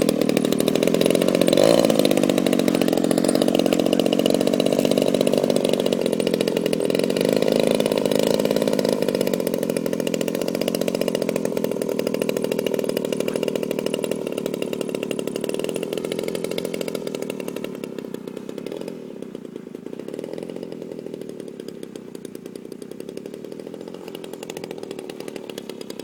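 Small engine of a radio-controlled model airplane running steadily, its pitch wavering slowly. It fades off markedly in the second half as the plane moves away.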